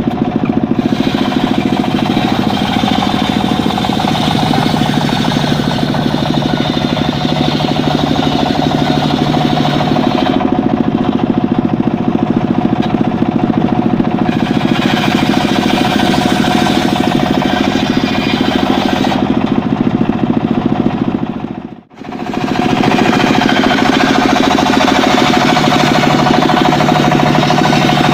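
Engine-powered mobile circular sawmill running steadily and loudly while it saws mahogany. It drops out for a split second about three-quarters of the way through, then carries on.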